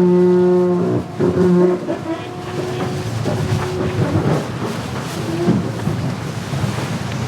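A horn sounds in blasts: a steady low tone about a second long, a shorter blast just after, then fainter tones that fade out after a few seconds. Wind and water noise follow.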